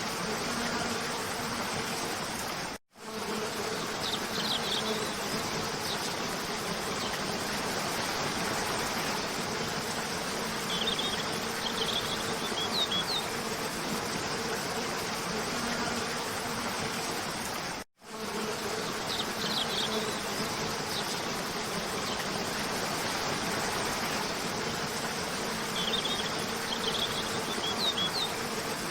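Cascading waterfall rushing steadily under a faint steady hum, with a few short bursts of high bird chirps. The track cuts out for a split second twice, about 15 seconds apart, where the loop restarts.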